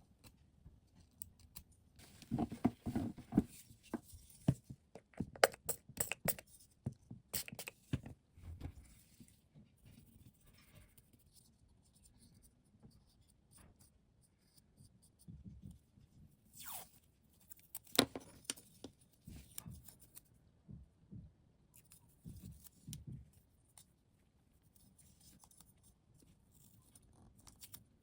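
Close-up hobby bench work with small hand tools and model parts: scattered clicks, taps and short scrapes, busiest in the first third, with a sharp click a little past the middle.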